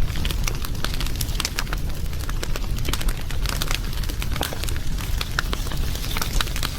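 Wood fire crackling: frequent, irregular sharp pops and snaps over a steady low rumble of burning.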